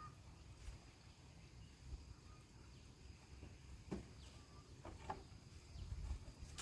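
Faint outdoor ambience: a steady high insect drone with a few short, faint bird chirps and occasional light clicks.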